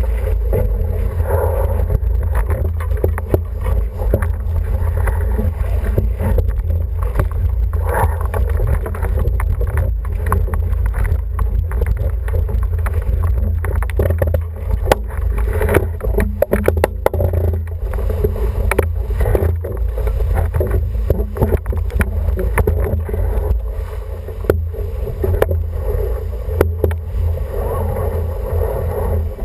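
Sailing noise aboard an International 14 dinghy: wind rumbling on the microphone and water rushing along the hull, with frequent short knocks and slaps.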